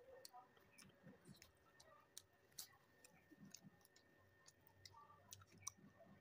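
Faint close-up eating sounds: soft chewing with small wet mouth clicks, scattered irregularly.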